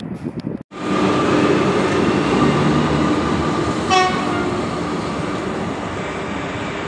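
SNCF BB 22200 electric locomotive hauling passenger coaches past at close range: wheels rumbling on the rail with a steady whine from the running gear. A brief sharp tone sounds about four seconds in, and the noise then slowly fades.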